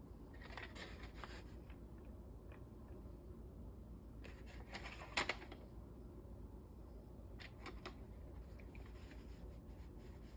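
Faint handling of a VHS tape and its plastic case: scattered light plastic clicks and rustling, with one sharper click about five seconds in.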